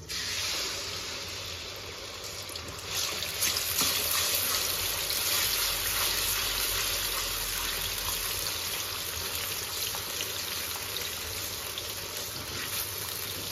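Garlic-ginger paste sizzling in hot oil: a steady hiss that grows louder about three seconds in.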